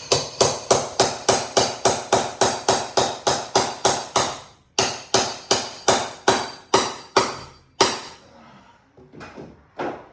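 Hammer blows struck in a fast, steady rhythm of about four a second, each with a short ringing tail, working at a deeply set fastener. There is a brief pause about halfway, then more blows, and a couple of lighter strikes near the end.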